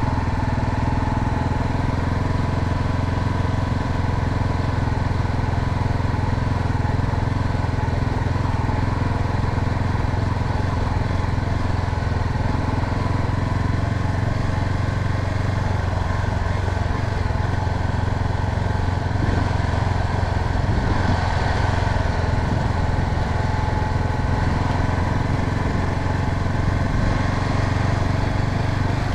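Honda Sahara 300 single-cylinder motorcycle engine running steadily while riding, its low drone holding an even pitch with the rush of air and road noise over it.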